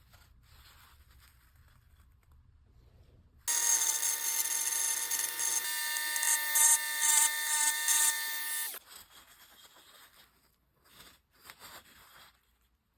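A power tool working wood, running with a steady high whine and hiss. It starts suddenly about three and a half seconds in and cuts off abruptly about five seconds later, with a few faint clicks after.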